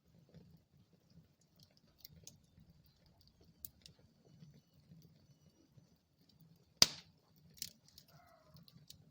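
Wood fire burning in a fireplace: a low steady rumble of flames with scattered small crackles, and one loud sharp pop about seven seconds in, followed by a smaller one.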